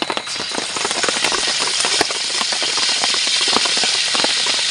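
Bird's eye chilies sizzling in hot frying oil: a loud hiss full of crackles that swells up just after the start and holds steady.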